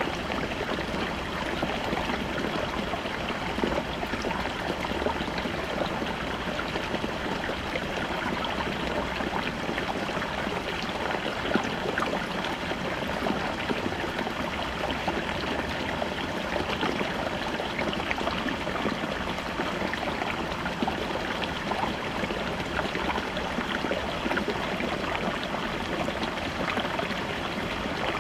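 Small brook babbling over rocks: a steady rush of water with many small splashes and trickles flickering through it.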